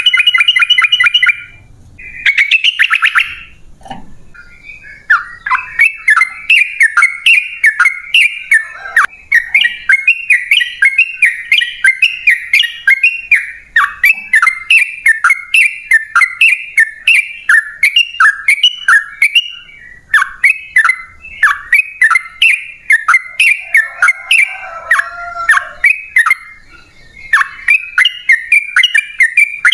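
Yellow-vented bulbul song: two short harsh calls at the start, then a long run of quick bubbling chirps, several a second, with only a brief break.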